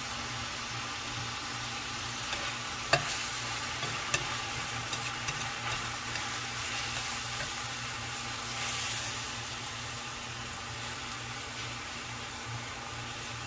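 Ground beef and rice sizzling in a frying pan as they are stirred, with the utensil clacking sharply against the pan a few times, loudest about three and four seconds in.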